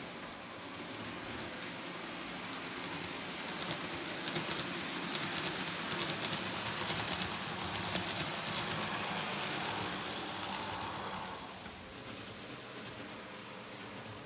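N scale model train running past on the layout track: the locomotive's motor whirs and the wheels click rapidly over the rails. It grows louder over the first several seconds, then drops away suddenly a little after the middle as the train moves off.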